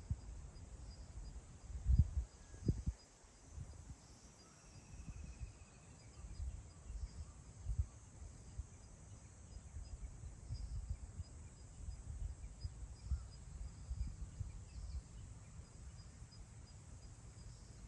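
Wind gusting over open grassland and buffeting the microphone in uneven low rumbles, strongest about two seconds in, over a faint steady high-pitched chirring and a brief bird trill about five seconds in.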